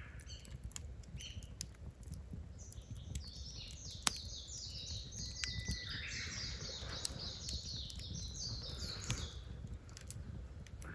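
A bird singing a long run of quick repeated high chirps, about three a second, for several seconds in the middle. Underneath, scattered sharp pops of a crackling wood fire.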